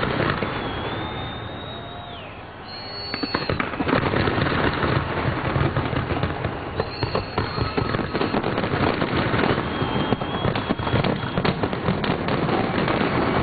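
Large fireworks display: dense bangs and crackling, with a few high whistles; a brief lull about two seconds in, then a dense run of crackle and bangs again.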